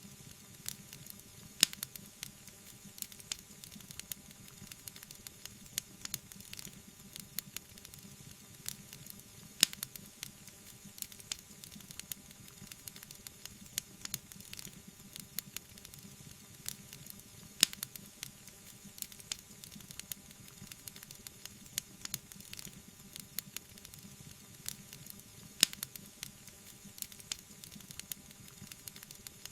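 Wood fire burning with constant small crackles over a soft hiss, and a few sharp, louder pops.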